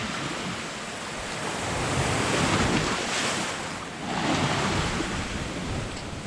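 Sea waves washing onto the shore, with wind buffeting the microphone. The noise swells twice, about two and four seconds in.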